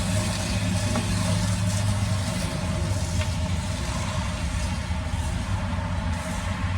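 An engine running steadily at idle, a constant low hum with a steady hiss over it.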